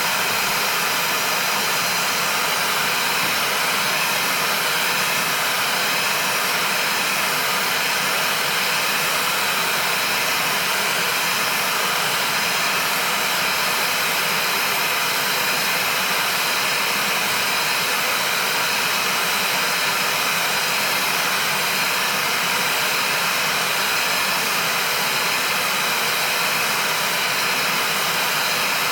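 Hot air gun running steadily at its maximum setting, blowing a constant rush of air while it heats a new crankshaft bearing through.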